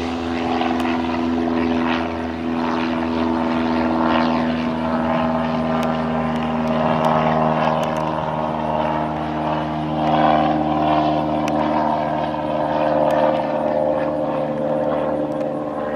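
Norfolk Southern train's diesel locomotive engines running with a steady, droning hum that swells a little now and then, with a few faint clicks over it.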